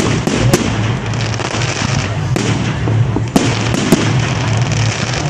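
Fireworks display: sharp bangs of aerial shells going off every second or so over a continuous dense crackle and rumble.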